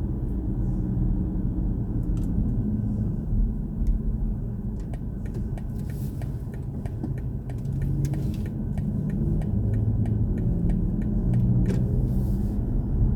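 Low, steady rumble inside the cabin of a BMW i4 M50 electric car, with a run of evenly spaced light ticks through the middle.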